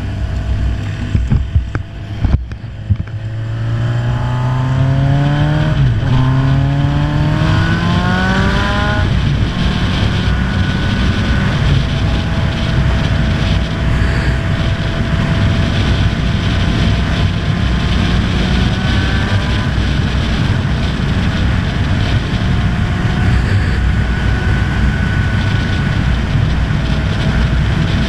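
Honda CB1000R's inline-four engine accelerating hard through two upshifts, its pitch climbing, dropping at each gear change about six and nine seconds in, then holding steady at high speed under heavy wind rush on the helmet microphone. A few knocks in the first seconds.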